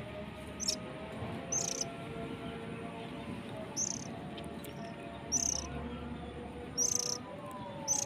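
Oriental magpie-robin giving short high chirps about once a second, over a distant loudspeaker call to prayer (adhan) sung in long, slowly wavering notes.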